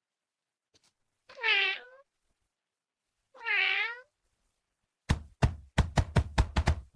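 A domestic cat meows twice, about two seconds apart, each a single drawn-out meow. From about five seconds in comes a quick run of about nine sharp knocks.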